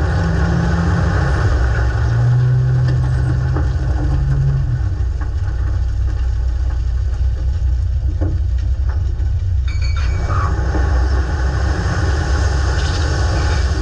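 Dump truck engine running with a steady low rumble and a pitched hum over the first few seconds, with a few sharp clicks or knocks around eight and ten seconds in.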